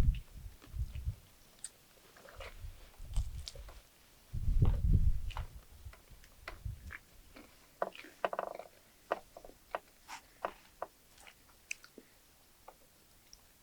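Someone biting into and chewing crispy fried food. There are low dull rumbles in the first few seconds, then many short, crisp crunches spread through the second half.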